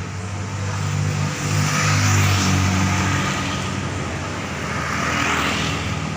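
Car engine running with road noise that swells twice, loudest about two seconds in and again around five seconds in, as vehicles pass close by.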